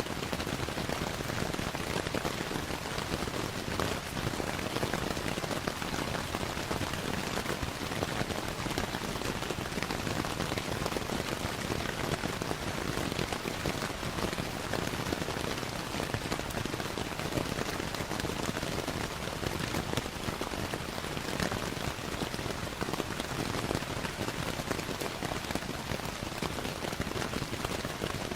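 Steady rain, an even hiss with a dense patter of drops, blended with the small pops and crackles of a fireplace.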